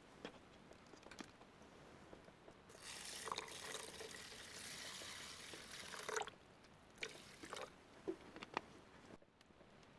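Liquid being poured, a steady hiss for about three and a half seconds, then a shorter pour a second later, with a few small knocks.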